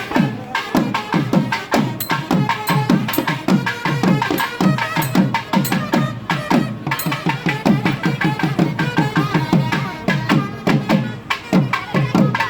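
Traditional drums played in a fast, dense rhythm, many strokes dropping in pitch, with a few held tones sounding above them.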